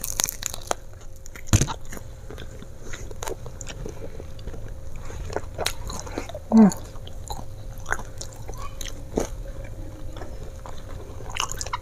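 Close-up biting and chewing of a skewered, potato-crusted chicken nugget: a few crunchy bites in the first two seconds, then steady chewing with many small crunches and smacks.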